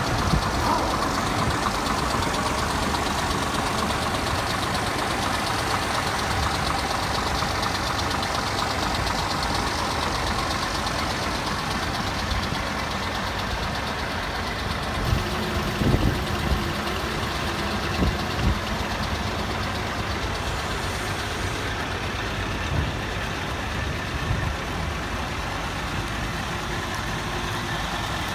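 Scania G360 truck's five-cylinder diesel engine idling steadily, with a few short knocks a little past halfway.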